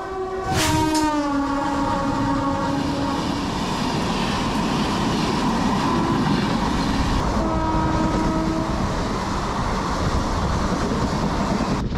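An express train running through the station at speed, its coaches rumbling and clattering past. Its horn sounds about half a second in, dropping in pitch as it goes by and held for about three seconds. A second, shorter horn blast comes about seven and a half seconds in.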